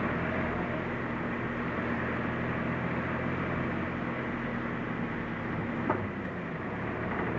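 Suzuki Jimny running steadily with its engine and road noise, with a single click about six seconds in, after which the engine's note changes.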